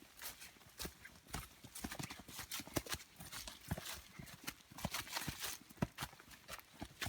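Footsteps of several people walking on a forest path: many irregular steps and knocks, several a second.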